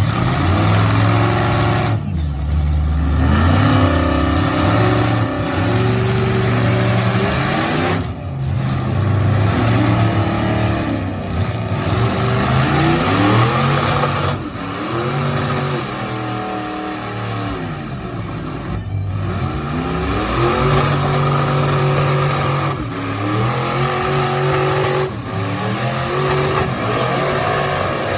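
Big-block mud truck engine revving hard under load in a truck pull, its pitch climbing and falling over and over. The sound breaks off abruptly several times.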